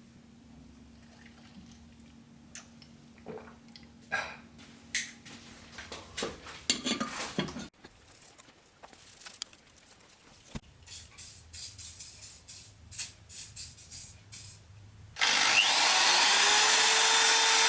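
Hand work on metal machine parts: scattered clicks, knocks and scrapes. Near the end a loud steady noise starts suddenly and runs on.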